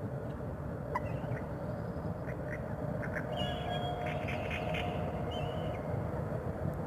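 Dawn lakeside ambience: a wild duck quacking and small birds calling over a low steady rumble. A distant electric train's horn holds one steady note for about two seconds in the middle.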